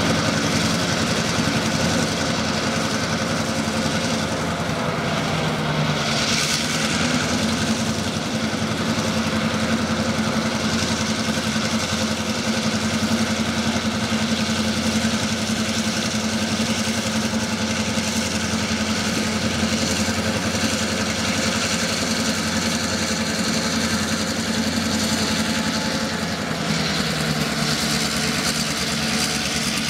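Diesel-electric freight locomotives working in a rail yard: a loud, steady diesel engine drone with a constant low hum, shifting slightly in pitch a couple of times.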